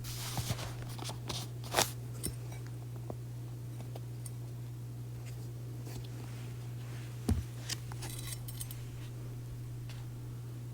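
Scattered small clicks and handling noises, a few near the start and a cluster about seven to nine seconds in, over a steady low electrical hum.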